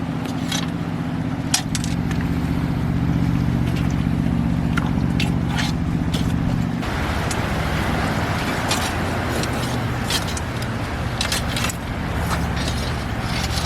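A steady low motor hum with scattered sharp clicks and scrapes. About seven seconds in, a rushing hiss joins and the hum thins.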